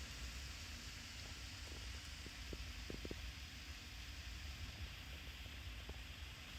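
Vegetables and mushrooms simmering in miso sauce in a pan over the fire: a steady sizzling hiss with a low rumble underneath and a few faint small pops.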